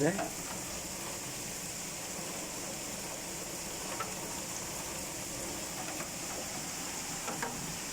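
Heavy rain pouring steadily, an even hiss, with a few faint ticks of drops landing close by.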